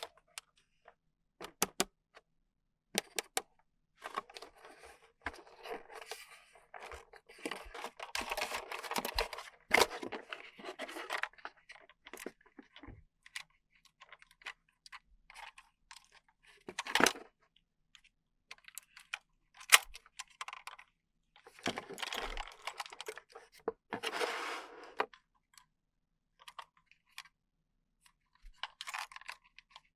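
Toy packaging being unboxed by hand: bursts of plastic and cardboard crinkling and tearing, with sharp clicks and taps of plastic parts in between.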